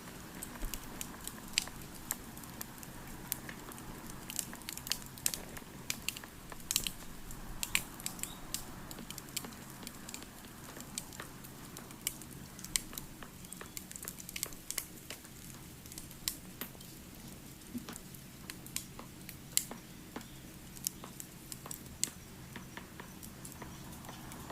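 Wood fire crackling, with many small irregular pops and snaps over a soft low rumble.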